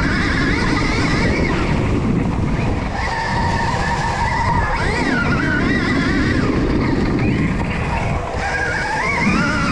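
Stark Varg electric dirt bike being ridden: a high motor whine rising and falling again and again with the throttle, over steady low rumble and tyre-on-dirt noise.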